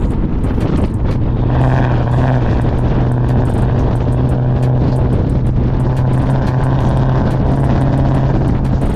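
Cammed Chrysler 300C's Hemi V8 running through a catless straight-pipe exhaust, holding steady revs with a loud, even low drone.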